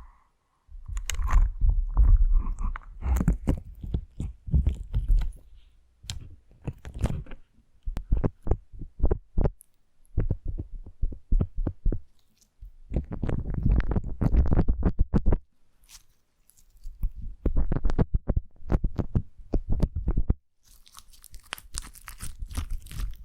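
Slime being squished and kneaded by hand: wet, sticky clicks and pops in bursts with short pauses between them. Near the end the sound turns brighter and hissier.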